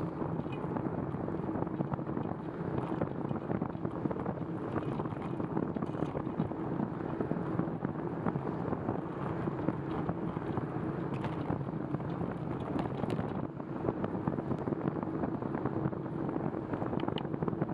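Steady wind noise on the microphone mixed with the hiss of bicycle tyres on wet pavement while riding, with a few faint clicks and rattles.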